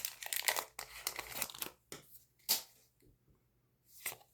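Trading-card booster pack wrapper being torn open and crinkled: a dense stretch of crackling through the first couple of seconds, then a few short, separate crinkles.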